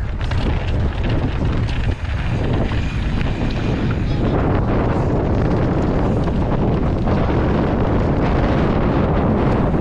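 Wind buffeting the microphone of a camera carried on a moving mountain bike: a steady rush that grows fuller about four seconds in.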